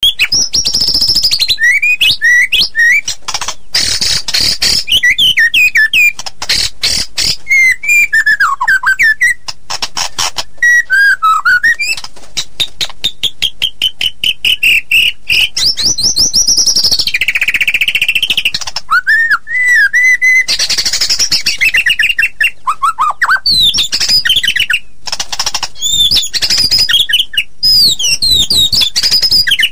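White-rumped shama (murai batu) singing loudly and without let-up: a fast, dense 'rawit' song of varied whistled phrases that slide up and down, woven with rapid chattering clicks. It is a lure ('pancingan') song, used to provoke other shamas into singing.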